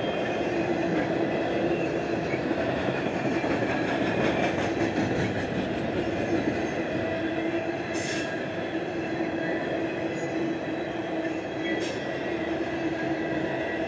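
CSX intermodal stack train's freight cars rolling past: a steady rumble of steel wheels on rail with a steady tone running through it. Two sharp clicks come about four seconds apart in the second half.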